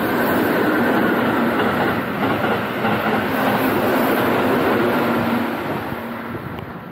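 Keihan Electric Railway train running through the station at speed without stopping: a loud rush of wheels and motors with a steady hum. It comes in suddenly, holds, and fades away over the last second or so as the train clears the platform.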